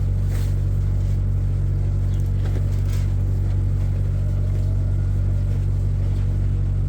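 Steady low mechanical hum, like a motor running, with a couple of faint knocks.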